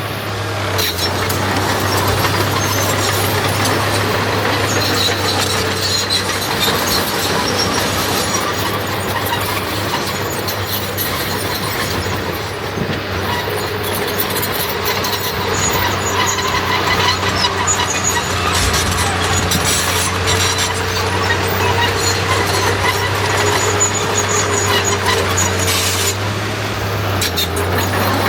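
Earthmoving machinery at work: a diesel engine running steadily under load, with shrill squealing tones coming and going over it, such as a crawler dozer's tracks make.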